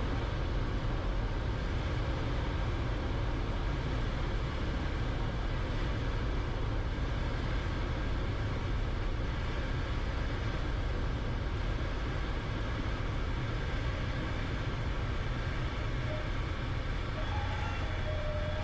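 Cessna 172 cabin noise: the piston engine and propeller running steadily at low power for landing, with airflow over the cabin. It holds a steady drone with a deep rumble throughout.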